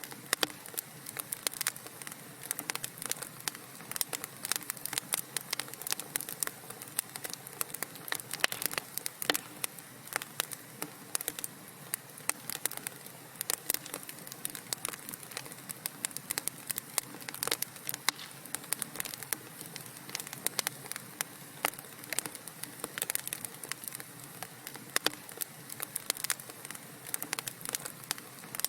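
Wood fire crackling: a dense, irregular stream of small pops and snaps over a soft steady hiss.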